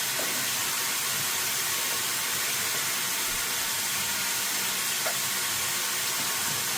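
Breaded chicken strips frying in hot oil: a steady, even sizzle.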